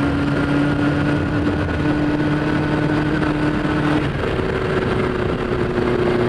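1973 Honda CB500 Four's air-cooled inline-four engine running under way at road speed, recorded on board. Its steady note breaks off briefly about four seconds in and comes back higher in pitch.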